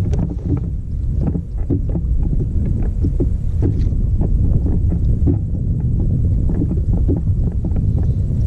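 Water splashing and lapping against a kayak hull, with short irregular knocks and a steady low rumble of wind on the microphone.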